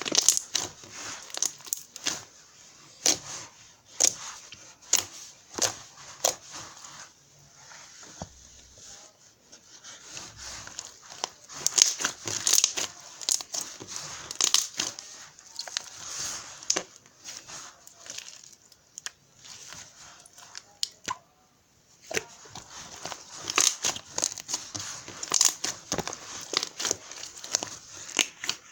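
Irregular crinkling and rustling with many sharp crackles, with a short lull about three quarters of the way through.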